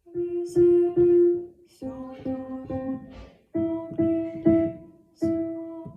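Closing bars of a Russian folk song sung with piano accompaniment: a series of held chords, each lasting about half a second to a second, that stop at the end.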